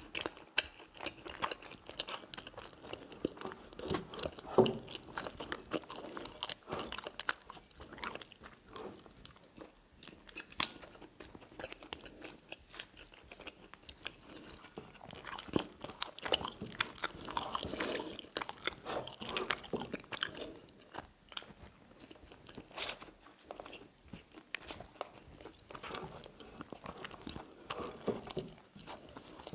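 Close-miked chewing and wet mouth sounds of a person eating tagliatelle in salmon cream sauce, with many small clicks and smacks throughout.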